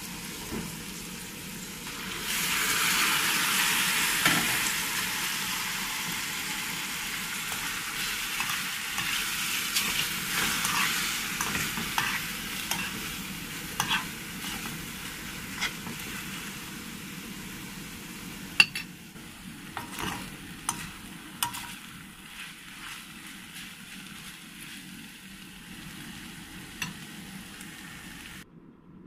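Instant noodles and vegetables sizzling in a hot aluminium wok. The sizzle jumps louder about two seconds in and slowly dies down, while a metal spoon stirring the food clinks and scrapes against the pan again and again.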